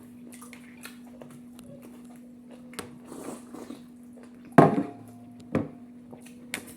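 Eating sounds at a meal: light clicks and small knocks of dishes, with two louder sharp knocks about four and a half and five and a half seconds in, over a steady low hum.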